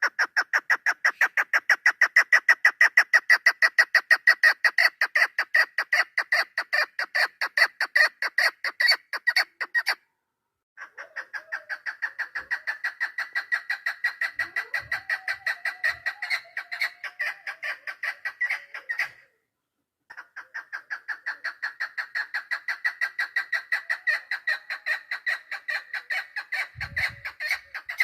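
Hen chukar partridge calling: a fast, even series of clucking notes in three long runs, broken by two short pauses. This is the hen's call used as a lure in chukar hunting.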